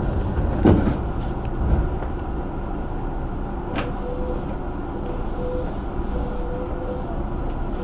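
Steady low rumble inside a train car standing at a station platform with its doors open, with a few short knocks and, from about four seconds in, a faint steady tone.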